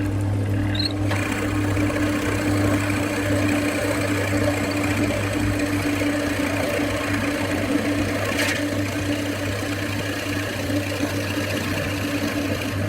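Wood lathe running steadily: a constant motor hum under an even hiss.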